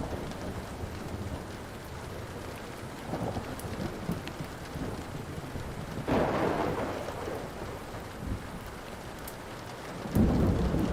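Steady rain with two rolls of thunder, one about halfway through that rises suddenly and fades over a few seconds, another starting near the end, over faint occasional crackles of a wood fire.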